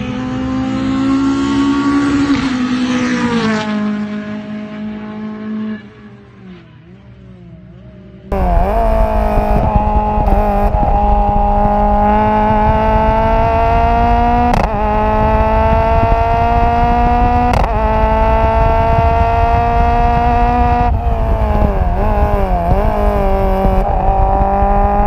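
Racing car engine heard from an exhaust-mounted camera at full throttle. The revs climb, then fall away and drop low for a couple of seconds. The engine comes back suddenly, loud and high, with two sharp cracks partway through and a stretch of falling and blipping revs near the end before it pulls again.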